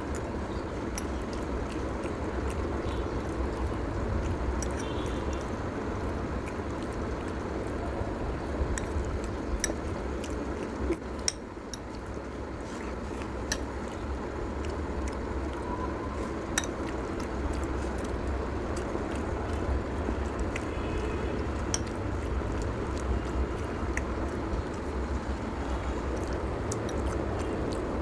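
Eating noodles from a plate, with occasional short clinks of cutlery against the dish over a steady low background rumble.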